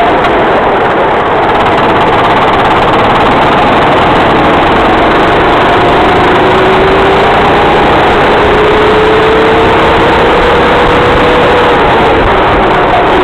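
Racing kart engine running hard, its pitch rising slowly over several seconds as the kart gathers speed, over a loud, steady rushing noise.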